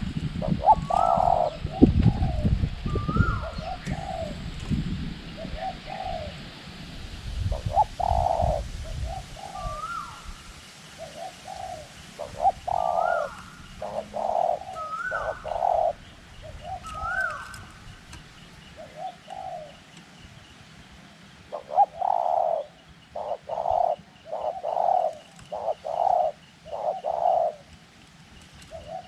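Spotted doves cooing in repeated phrases, with a quick run of coos near the end. Wind rumbles on the microphone through the first third.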